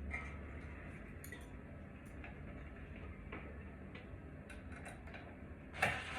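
Scattered light clicks and taps, with one louder clatter near the end.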